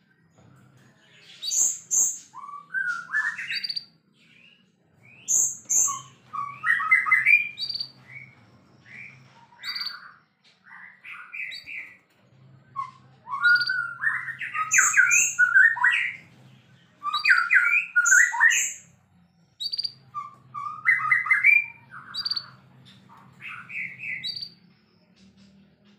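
White-rumped shama (murai batu) singing a full, varied song: phrases of rapid whistles, trills and sharp high notes a few seconds long, separated by short pauses.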